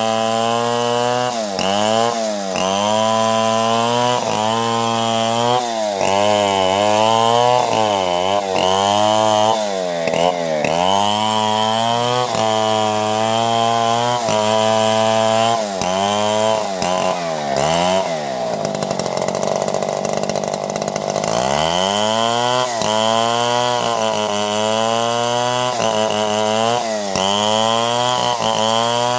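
Two-stroke chainsaw cutting timber into boards, its engine pitch sagging again and again as the chain bites into the wood and recovering in between. About two-thirds of the way through the pitch drops further for a couple of seconds, then climbs back up.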